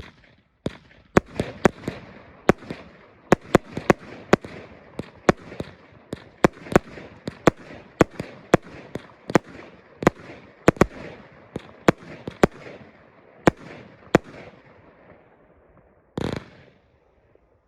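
Dark Spirits firework cake by Precision Pyrotechnics firing a long run of shots, sharp bangs about twice a second with crackling between them, dying away near the end.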